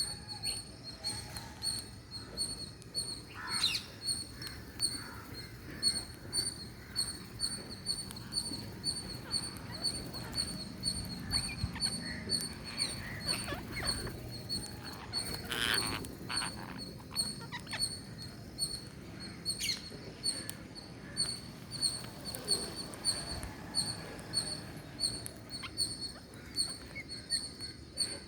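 Parrots giving short, high peeps in a steady rhythm, a little more than one a second, with a few louder sharp calls.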